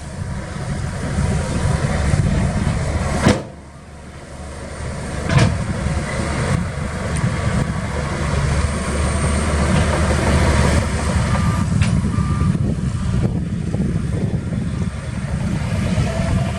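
Heavy diesel earthmoving machinery running with a low, steady rumble. About three seconds in there is a sharp click and a sudden drop in level, then the engine noise builds again. Two short high beeps come near the middle.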